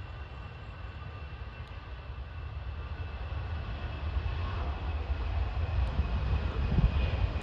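Airbus A320's CFM56 turbofan engines at takeoff thrust during the takeoff roll: a steady jet noise with a low rumble, growing gradually louder as the aircraft accelerates down the runway.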